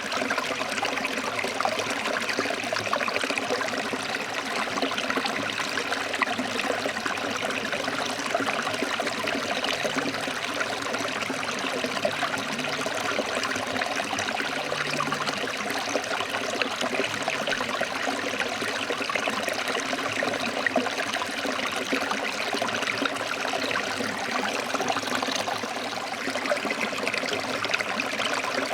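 Stream water flowing over rocks: a steady, even babble with no pauses or changes.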